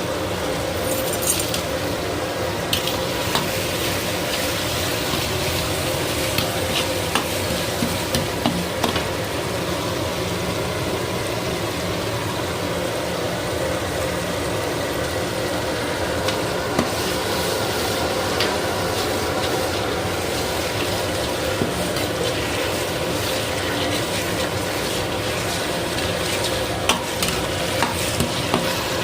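Chicken curry sizzling in a pan as it is stirred, with occasional clicks of the spoon against the pan.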